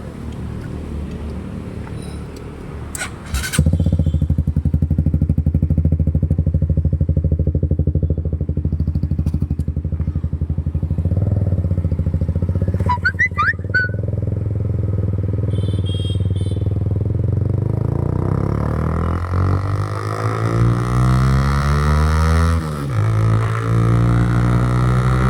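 Honda CBR 150 motorcycle engine running through its exhaust: a steady idle that turns louder about four seconds in, then near the end climbs in pitch, dips briefly and climbs again.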